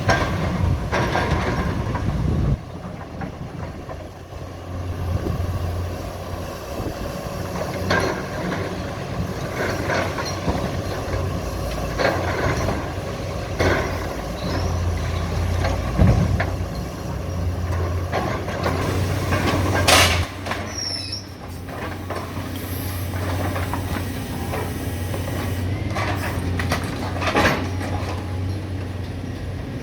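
Caterpillar excavator's diesel engine running steadily, with scattered sharp clanks and crashes of building demolition; the loudest crash comes about two-thirds of the way through.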